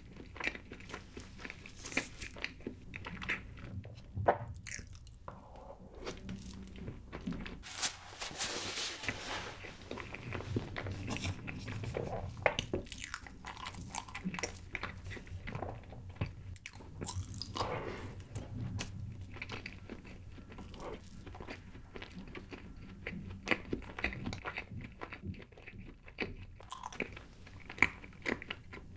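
Close-miked chewing and biting of chocolate layer cake: soft, sticky mouth sounds with many short crackles and clicks throughout.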